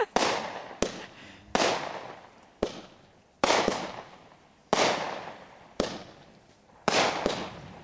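Consumer fireworks going off in quick succession, about one report a second. Each is a sharp bang followed by a noisy tail that fades away before the next.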